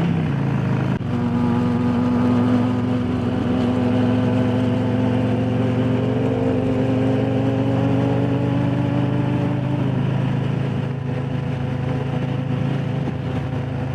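Harley-Davidson Low Rider S's Milwaukee-Eight V-twin running steadily while riding. Its note shifts briefly about a second in, then holds steady.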